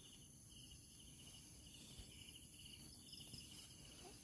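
Faint night chorus of crickets chirping in quick repeated pulses, over a steady thin high-pitched insect drone.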